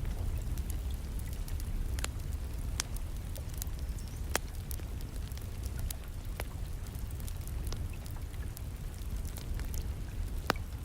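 Wood fire crackling in a fireplace, with sharp pops at irregular intervals over a steady low rumble, and steady rain behind it.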